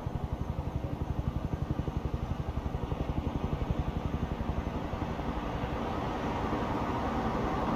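A motor vehicle's engine running with a rapid, even low throb, which smooths into a steadier rush about two-thirds of the way through, as of the vehicle moving off or passing.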